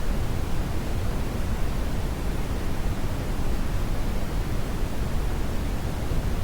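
Steady brown noise: an even, deep rushing hiss, strongest in the bass and fading toward the treble.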